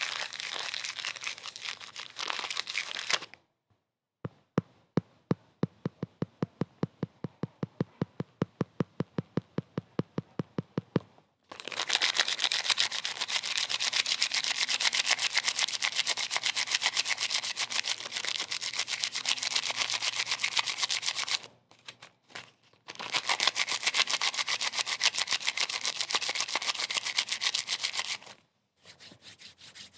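Stretches of dense, fine-grained rubbing noise that cut off abruptly several times. Between them comes a run of sharp, evenly spaced clicks at about four a second.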